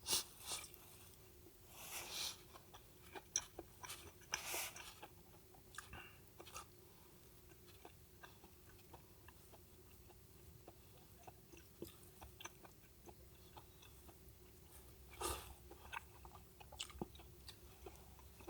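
Quiet handling sounds in a small enclosed space: scattered small clicks and taps, with three brief louder rustles, over a faint steady hum.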